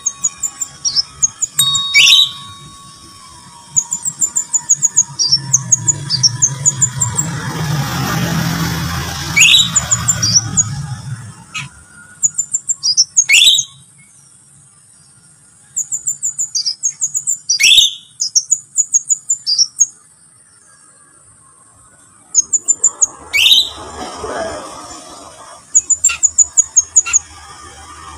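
Crimson sunbird singing: bursts of rapid, high, thin chirps broken by pauses, with several loud, sharp calls that sweep downward. A low rumble with a rushing noise swells and fades in the middle.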